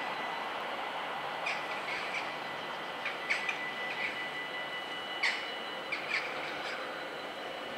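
Small birds chirping: short, separate calls scattered through, over a steady background noise.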